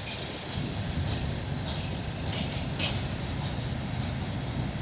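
Freight train cars rolling past slowly as the train gathers speed: a steady rumble with a few faint wheel clicks over the rail joints.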